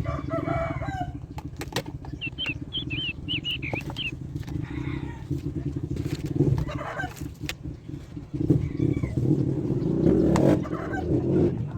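An engine running steadily with a low, pulsing rumble. A run of short, high bird chirps comes about two to four seconds in.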